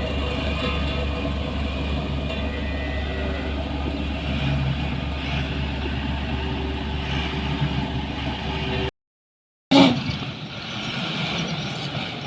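Heavy diesel machinery running steadily with a deep low hum. The sound cuts out abruptly for under a second about nine seconds in, then comes back quieter and more uneven.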